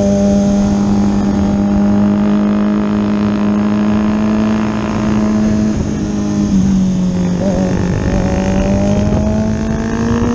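Kawasaki Ninja ZX-6R inline-four engine running at high, steady revs, heard onboard with wind rush. The pitch dips slightly a little past halfway, then climbs steadily as the bike accelerates out of the corner.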